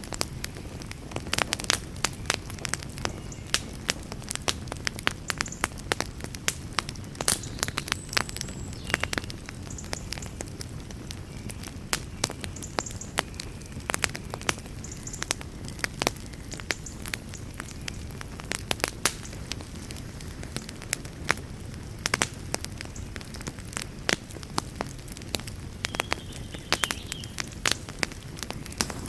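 Wood campfire crackling, with frequent sharp pops and snaps at irregular intervals over a low, steady background rush.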